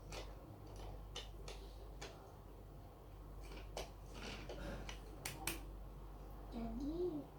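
Small plastic Lego pieces clicking and tapping as they are handled and pressed together, a sharp click every second or so. Near the end, a short rising-then-falling tone like a hummed note.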